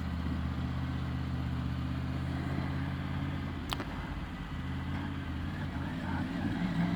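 Triumph Tiger 900 GT Pro's three-cylinder engine idling steadily, with a single sharp click a little under four seconds in. The engine note lifts briefly near the end.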